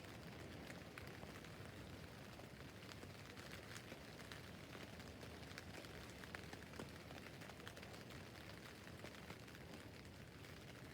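Faint, steady rain on a tent roof, with many separate drops ticking on the fabric.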